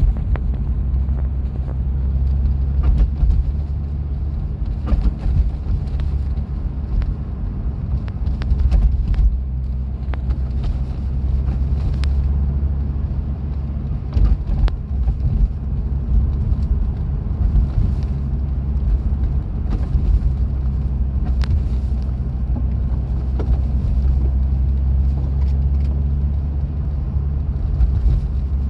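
Chevrolet Corvette C5 running with a steady low drone, with sharp clicks scattered irregularly through it: the strange noise the car is making, of unknown cause.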